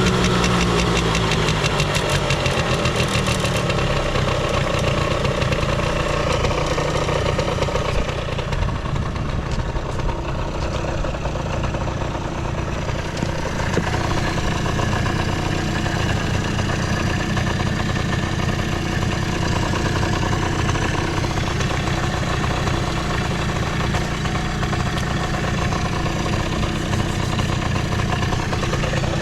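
Suzuki Hi (CA19A) scooter's small two-stroke engine idling steadily after a cold start, free of abnormal noise. Its revs drop and settle during the first few seconds.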